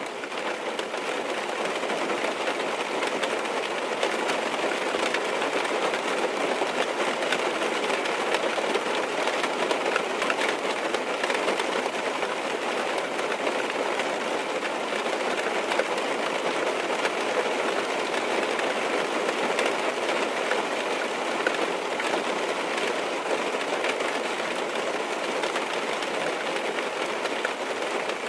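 Steady rain drumming on a car's roof and glass, heard from inside the cabin, a dense patter of drops that fades in over the first couple of seconds.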